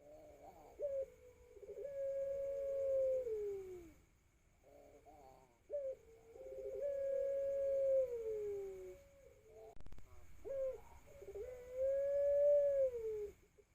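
Young ringneck dove (puter pelung) cooing: three long coos, each opening with a few short notes and ending in a long held note that slides down in pitch. A 4–5-month-old bird learning its call, with the drawn-out, not yet steady coo typical of a young dove.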